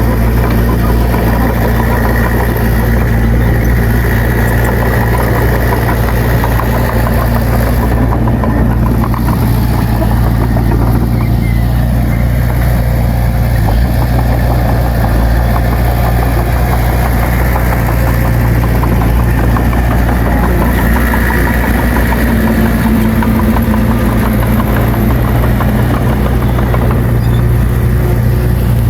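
Bulldozer's heavy diesel engine running steadily at an unchanging pitch.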